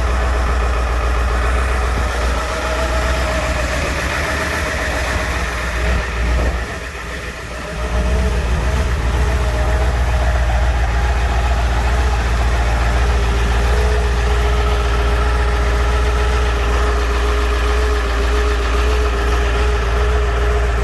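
Ford 7.3 Power Stroke V8 turbodiesel idling cold, just after a start in freezing weather without the block heater. It runs steadily, briefly dropping in level about seven seconds in.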